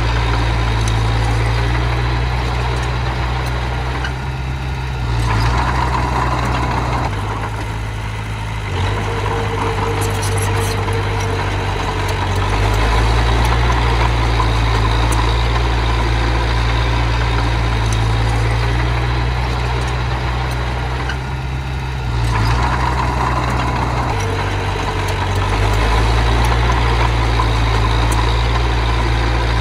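Engine of small earthmoving machinery running under load, a low drone whose pitch and loudness shift twice as the load changes.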